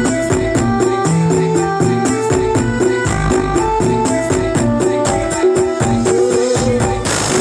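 Music with a fast, even beat and a repeating melody, played through a carnival sound system; a short hissing sweep comes near the end.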